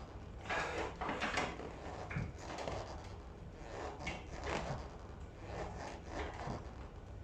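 Plate-loaded leg extension attachment on a weight bench working through a set, its pad and pivot giving a scrape and knock with each rep, roughly once a second.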